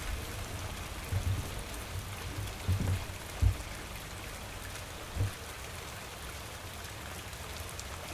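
Steady rain falling, an even hiss, with a few soft low thumps in the first few seconds.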